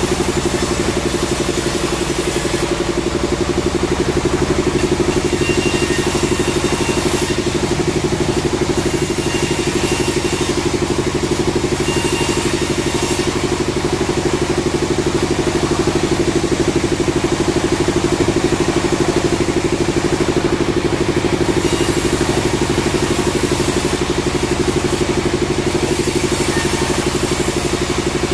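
Sawmill machinery running steadily: an even, engine-like drone with a strong low hum.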